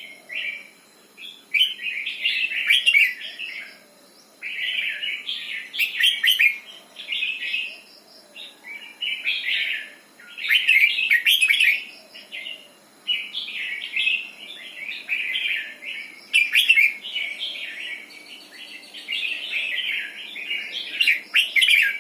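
Red-whiskered bulbul singing, a run of loud warbling phrases about one to two seconds long with short pauses between them.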